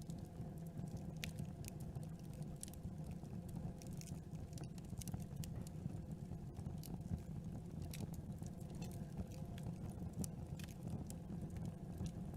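Campfire burning, with a steady low rumble under frequent sharp, irregular pops and crackles.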